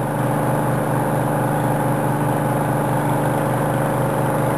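Dewatering pumps running with a steady, even engine-like drone. They are keeping the excavated boat ramp pumped out against water leaking through the wall.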